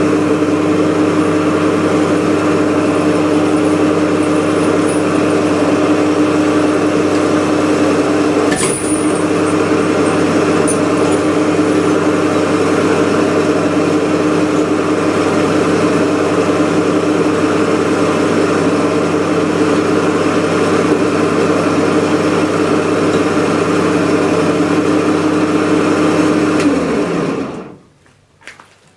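Harbor Freight 1500 lb electric hoist motor running with a steady hum and a single click about nine seconds in, then stopping near the end.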